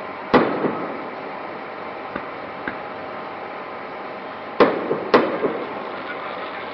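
Aerial fireworks shells exploding: one loud bang shortly after the start, a couple of faint pops, then two more loud bangs about half a second apart in the second half, each with a short echoing tail. A steady background noise runs underneath.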